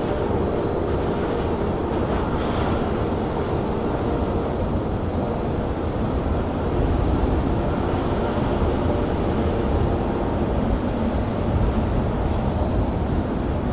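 Steady low rumble of a train in a railyard, with a faint steady high whine above it. About seven seconds in there is a brief, rapid high-pitched chatter.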